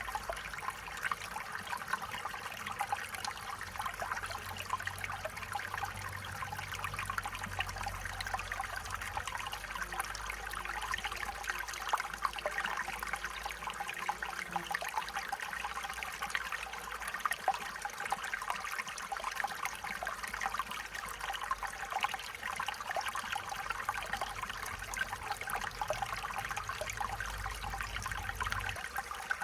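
Stream water flowing steadily, a continuous even rush of running water.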